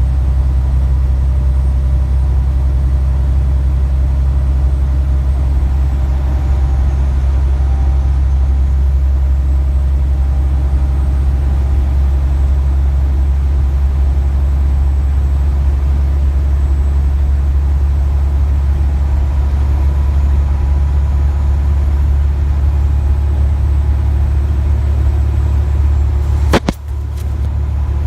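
Steady low rumble, with one sharp click near the end.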